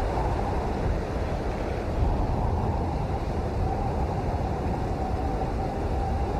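Steady rain falling, a dense unbroken hiss with a heavy low rumble, and a faint wavering hum underneath.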